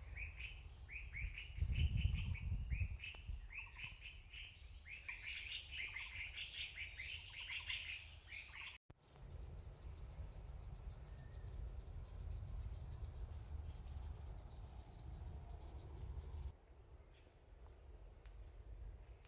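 A bird calling with a quick run of short repeated chirps over a steady high buzz of insects. The chirping stops about nine seconds in, after a brief dropout, leaving the insect drone and a low rumble.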